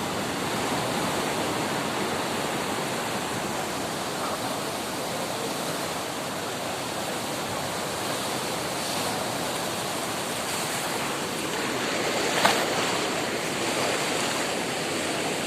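Ocean surf washing onto a beach, a steady rushing of breaking waves. About three-quarters of the way through there is one brief sharp crack.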